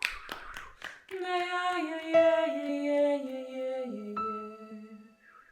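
A woman's voice sings a long wordless tone, stepping down in pitch several times before fading out. A struck instrument note rings in about four seconds in.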